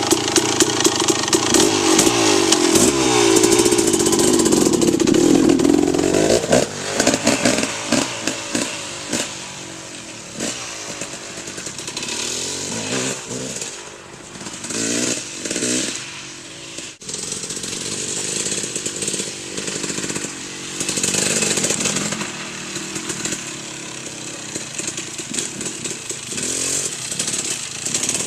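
KTM 300 MXC two-stroke dirt bike engine revving hard close by for the first several seconds, pitch rising and falling with the throttle. It then fades as the bike rides off, with repeated bursts of throttle, and grows louder again as it comes back near the end.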